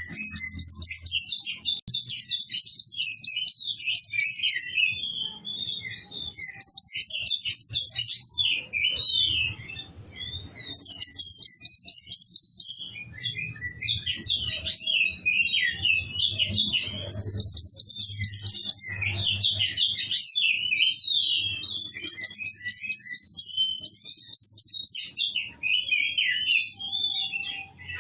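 A kowul songbird singing continuously: fast, rattling high trills of a second or two, repeated every few seconds, alternating with quick chattering twitters.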